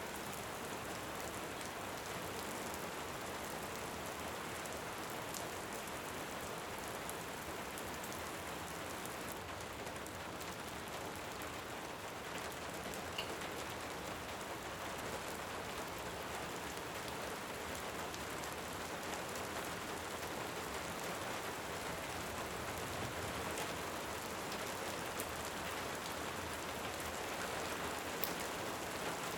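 Steady rain falling, with a few faint crackles from a wood fire.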